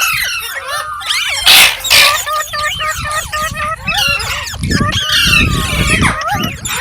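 Pet green parrot chirping and chattering in quick rising and falling calls, with two loud harsh bursts about a second and a half and two seconds in.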